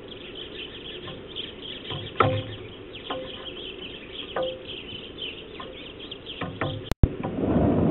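Small birds chirping repeatedly in quick, high notes, with scattered short knocks. A brief dropout about seven seconds in is followed by a low rumble near the end.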